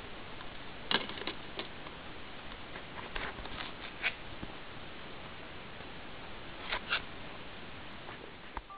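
Irregular light clicks and taps over a steady hiss, with a sharper knock about a second in and two close together near the end: a coffee maker and its plastic parts being handled while unpacked.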